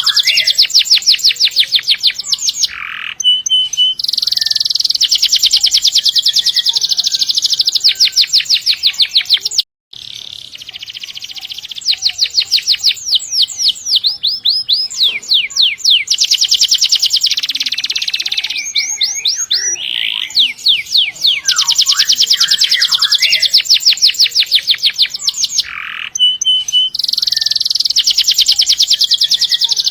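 Domestic canary singing vigorously in long, rapid high-pitched trills (rolls) of fast repeated notes, phrase after phrase. There is a brief break about ten seconds in.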